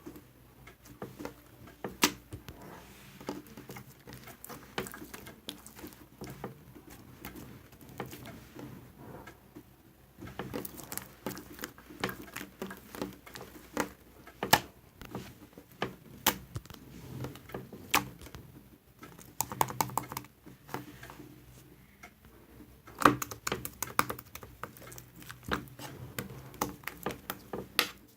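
Irregular sharp taps and clicks, some in quick clusters, over a faint low hum.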